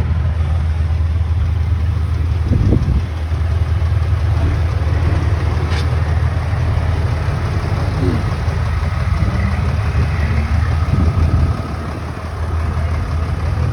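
A motor vehicle's engine idling close by: a steady low hum that eases briefly near the end.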